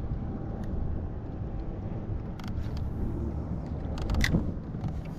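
Wind rumbling on the microphone, with a few light knocks, one cluster about four seconds in.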